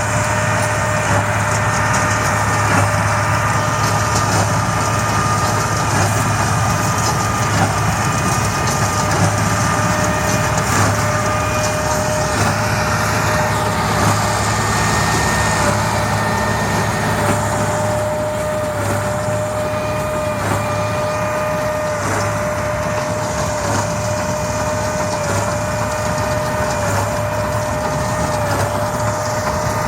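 Tractor engine and Hesston 4700 big square baler running steadily together, with a constant whine over the engine that dips slightly in pitch now and then.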